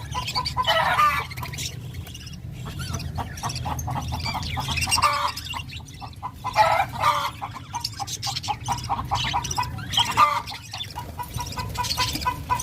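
Birds calling in short bouts several times, over a steady low hum.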